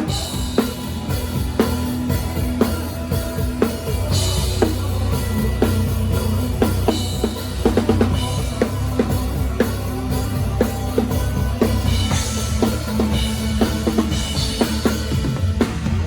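Drum kit played live in a band: a steady kick-and-snare beat with cymbal crashes every few seconds, over a sustained bass line and other band instruments.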